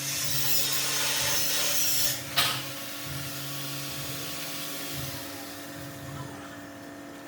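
Workshop tool noise: a hissing rub for about two seconds, a sharp knock, then quieter rubbing over a steady low hum.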